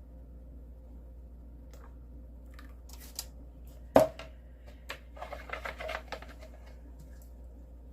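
Clicks and knocks of soapmaking utensils being handled on the work surface: a few light clicks, one sharp knock about four seconds in, then a quick run of rattling clicks.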